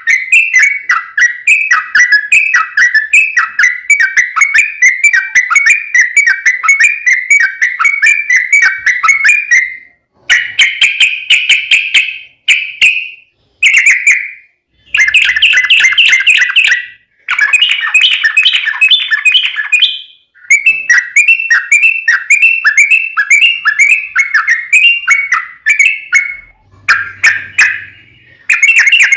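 Yellow-vented bulbul (trucukan) singing loudly: a long, rapid run of repeated chirping notes for about ten seconds, then shorter bursts of song with brief pauses between them. This long fast-repeating song style is the 'ropel panjang' that is used as a lure to get other trucuk birds calling.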